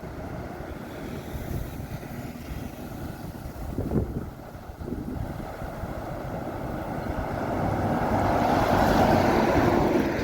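Motorbike riding, with wind buffeting the microphone over the engine and road rumble; the noise builds and grows louder over the last few seconds.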